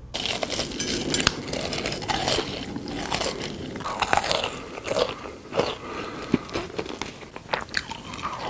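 Close-miked eating sounds: a person biting into and chewing crunchy food, a dense run of irregular crunches and crackles.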